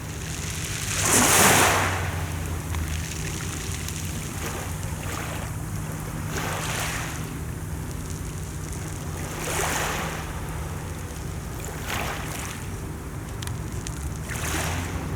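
Sea waves washing in, a hiss of surf that swells and fades about five times, over a steady low hum.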